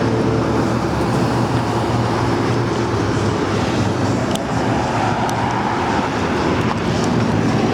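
Yamaha V Star 1300's liquid-cooled V-twin on its factory exhaust, running steadily and fairly quietly.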